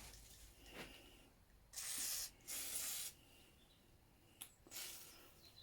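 Two short hissing bursts from an aerosol can of spray lubricant, each about half a second, as lube is sprayed onto a stuck part to help free it.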